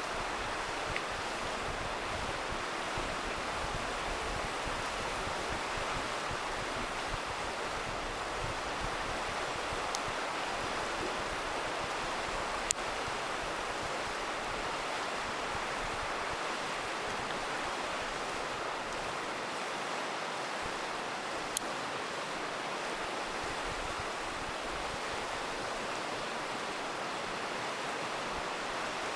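Steady rush of a river running over rocks, with a few sharp pops from a crackling campfire, the loudest about a third of the way in and again about two thirds of the way in.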